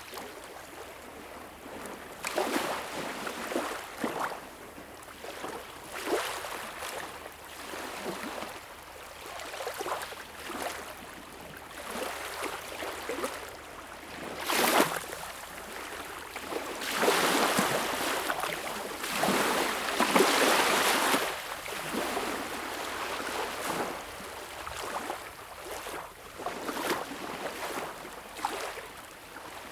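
Sea water washing and splashing at the shore in a run of short surges every second or two, with a louder, fuller rush of surf a little past the middle.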